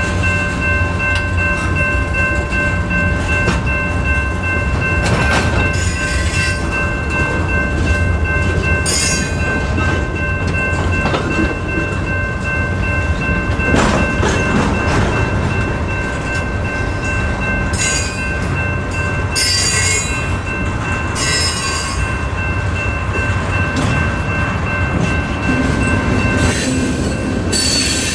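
Freight train cars rolling past at a grade crossing: a steady low rumble of wheels on rail, with brief high squeals every few seconds. A steady high whine runs under it and stops near the end.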